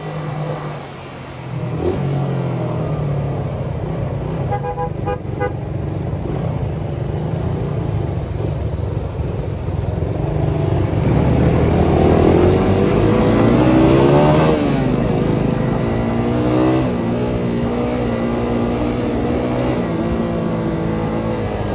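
Suzuki Satria FU 150's single-cylinder four-stroke engine running through its Thai-spec CBU exhaust, revving up and dropping back several times through the middle with rising and falling pitch.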